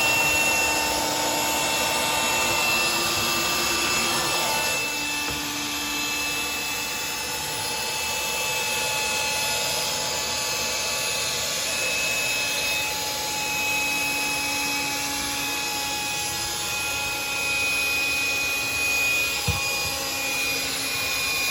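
Black & Decker cordless handheld vacuum cleaner running steadily: a high motor whine over the rush of air, its pitch shifting slightly a few times as the load changes, with a brief knock near the end.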